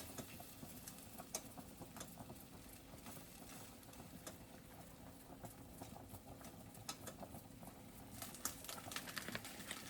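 Faint, irregular light taps and pattering, busier near the end: dried seasoning being shaken from a shaker onto chicken in a pot.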